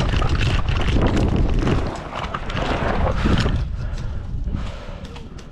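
Wind buffeting the microphone: a heavy, ragged rumble with scattered crackles.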